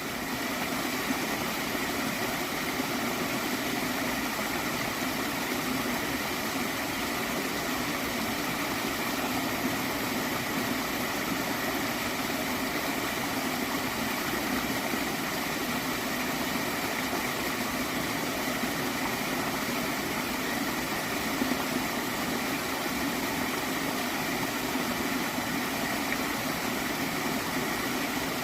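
Gently flowing stream of water, a steady, even gurgling rush.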